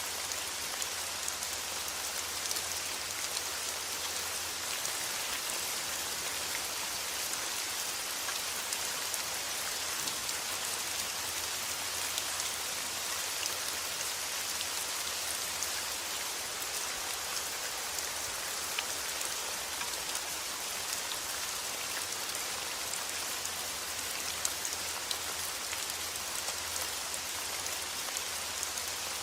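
Steady rain falling: an even, dense hiss of rain with faint individual drop ticks scattered through it, unchanging throughout.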